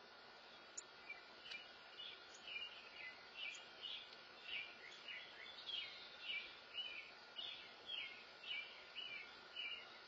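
A small songbird chirping over and over, about two short, high, down-slurred chirps a second, starting about a second in.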